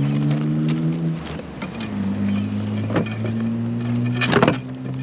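A vehicle engine running steadily at idle, its pitch shifting slightly about a second in, with a knock about three seconds in and a louder brief clatter of handled items just past four seconds.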